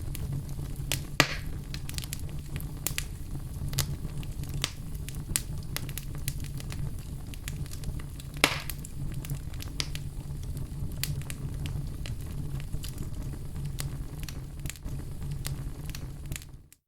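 Wood fire burning in a fireplace: a steady low rumble with constant small crackles and two louder pops, one about a second in and one about halfway through. The sound cuts out for a moment near the end.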